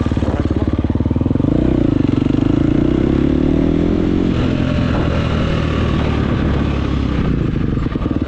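Gas motorcycle engine running close by. About a second and a half in, its pitch climbs and holds for a few seconds, then drops back to a steady run.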